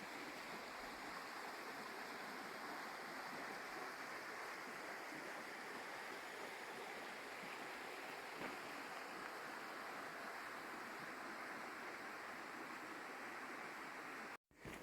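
Steady rush of running water, an even hiss with no surges. It cuts out briefly just before the end.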